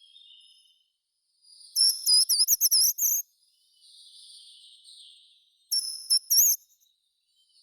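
Songbirds singing: two loud bursts of rapid, sweeping high whistled notes a few seconds apart, with a fainter, softer call between them.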